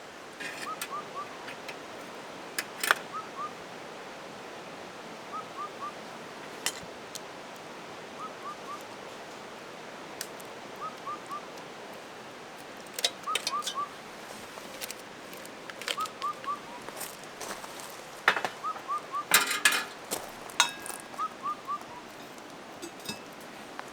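Campfire crackling with scattered sharp pops, a cluster of them about three-quarters of the way through. Over a soft steady hiss, a bird repeats a quick three-note call about every two and a half seconds.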